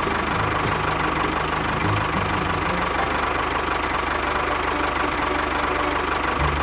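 Small motor of a DIY model tractor running steadily with a constant high whine.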